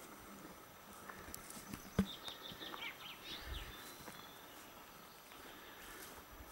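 Quiet outdoor ambience with a bird singing a short run of quick falling chirps about two seconds in, just after a single sharp knock.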